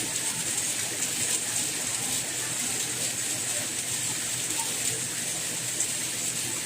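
Steady rain falling, a continuous even hiss of drops with no breaks or changes.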